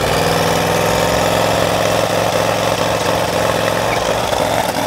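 A vehicle engine idling with a steady, even note, easing slightly about four seconds in.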